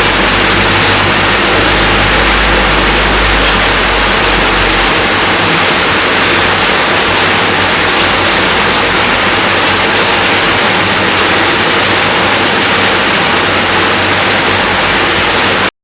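Steady rain falling, a dense even hiss, with a low rumble underneath that fades out about five seconds in. The sound cuts off suddenly near the end.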